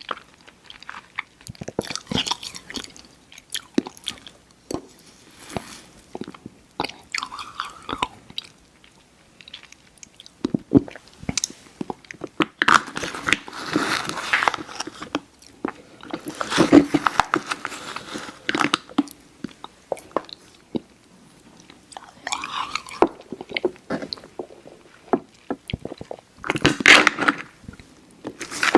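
Close-miked mouth sounds of chewy Airheads Xtremes sour candy being bitten and chewed: wet clicks and smacks in irregular bouts, with short pauses between them.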